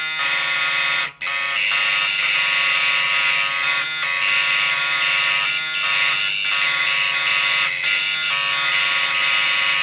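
Electric alarm buzzer sounding continuously as a harsh, steady buzz, broken by a brief dropout about a second in.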